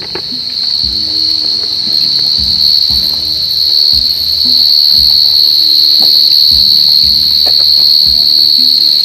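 A burrowing cricket calls with a loud, unbroken, high-pitched trill. It grows louder over the first few seconds as the microphone closes in on it, then holds steady. Soft knocks and rustling from handling and steps sound underneath.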